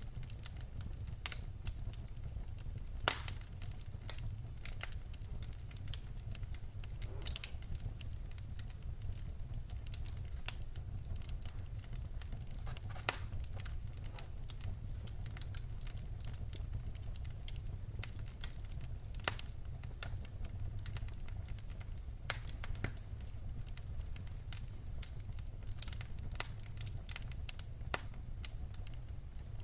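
Wood fire crackling in a fireplace: irregular sharp pops and snaps of burning logs, some louder than others, over a steady low rumble of the flames.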